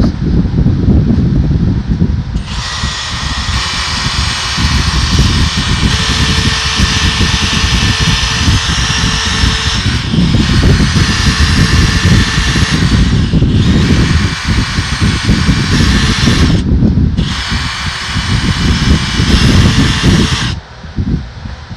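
Wire brush spun by a power drill, scrubbing grime off small metal parts of a loader control valve. It runs in four long passes separated by short pauses, with a faint motor whine under the scratching.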